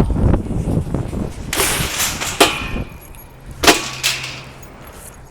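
Metal shopping cart rattling and clanging as it is pushed back into the cart rows, with two sharp metal bangs about two and a half and three and a half seconds in. Wind buffets the microphone at the start.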